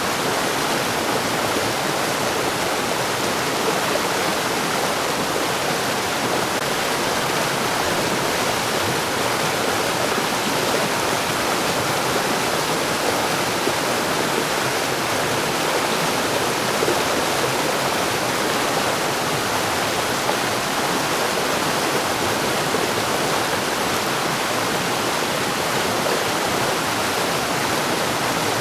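Mountain stream rushing over rocks, a steady, unbroken sound of flowing water.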